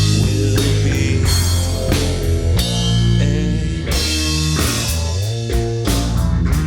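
Live rock band playing an instrumental passage: drum kit, bass and guitar.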